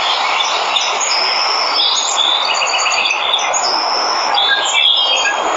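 Steady rush of a waterfall, with several birds chirping and trilling over it, busiest in the middle.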